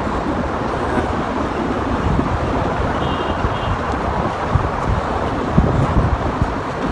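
Sandstorm wind buffeting the microphone over the steady noise of road traffic.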